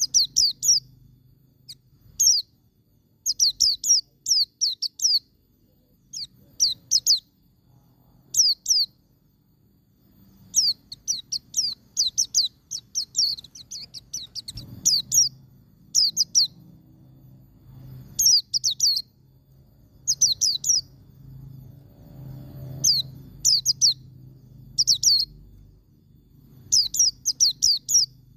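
White-eye (pleci) singing in its 'ngalas' style: short, fast bursts of sharp high notes, each note falling in pitch, repeated every second or two.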